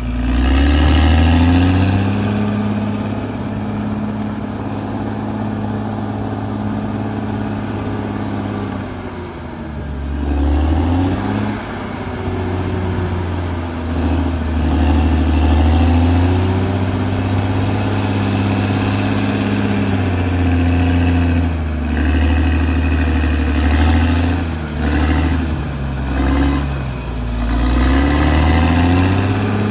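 Caterpillar D6R XL bulldozer's diesel engine working under load, its pitch rising and falling again and again as it revs up and settles back.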